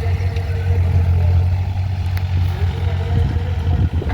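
Diesel engine of a JCB digging machine running with a steady low drone.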